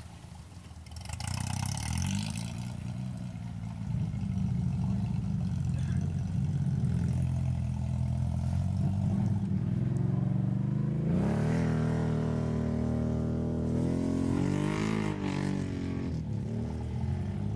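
UAZ off-road vehicle's engine running under load, rising in pitch about two-thirds of the way through as it is revved hard, then rising and falling with the throttle.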